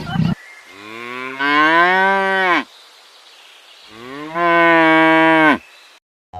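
Cow mooing twice: two long, low calls, each rising slowly in pitch and dropping off sharply at the end.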